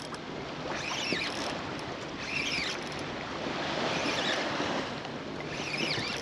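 Wind on the microphone and water around a kayak, with short high squeaky chirps recurring about every second and a half.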